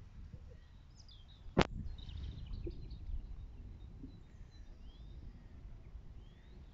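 Birds chirping now and then over a low steady rumble. One sharp click about a second and a half in is the loudest sound.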